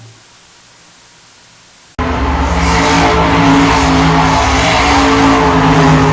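Truck engine held at high revs in a burnout, tyres spinning and squealing on the pavement; it cuts in suddenly about two seconds in after a quiet stretch and then holds steady.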